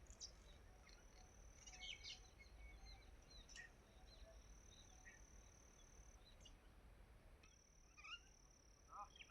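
Faint outdoor ambience: scattered bird chirps and short calls over a steady high-pitched insect buzz that drops out briefly past the middle, with a low background rumble.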